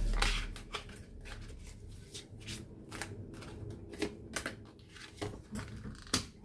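Tarot cards being shuffled and handled, a run of quick irregular flicks and riffles.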